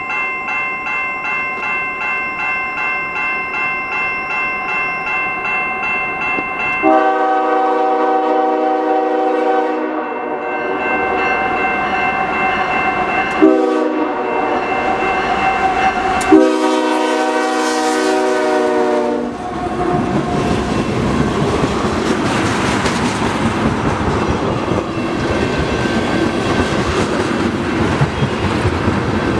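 Grade-crossing bell ringing, then a Canadian Pacific freight locomotive's air horn sounding the crossing signal: long, long, short, long. The train then passes close by with a loud steady rumble and wheel clatter on the rails.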